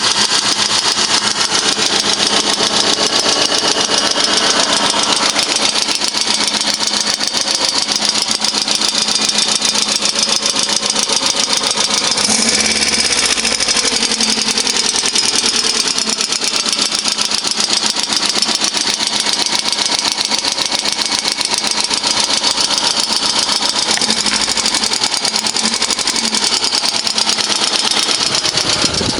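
16-valve VAZ-2112 engine running steadily with a fast, even ticking from the valvetrain: the tapping of worn or oil-starved hydraulic lifters.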